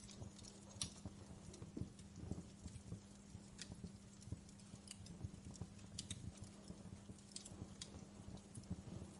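Wood fire crackling in a fireplace: irregular small pops and snaps over a soft low rumble, with a faint steady hum underneath.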